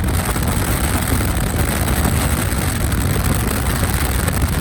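Strong storm wind rushing and buffeting through an open car window while driving, a steady heavy rumble with wind hitting the microphone.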